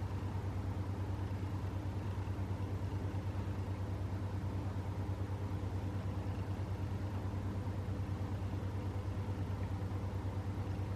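A motor running steadily with a low hum and a rapid, even pulse.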